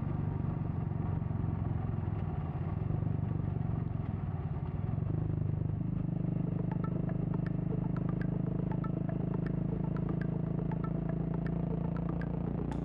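Royal Enfield Classic 350's single-cylinder engine running through a Red Rooster aftermarket exhaust. Its beat settles to a steady pitch about halfway through, with light ticking over it in the second half.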